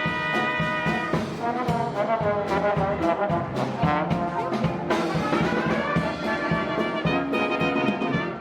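Loud brass-led orchestral music, with trumpets and trombones playing held and moving notes, breaking off at the end.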